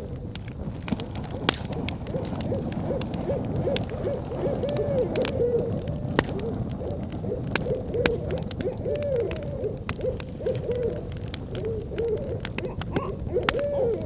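Wood fire crackling with sharp pops over a low steady rumble, while an owl hoots over and over in short rising-and-falling notes.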